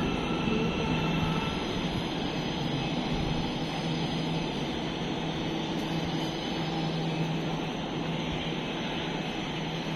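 Steady rumble of a metro train running at an elevated station, with a low hum underneath, easing slightly toward the end.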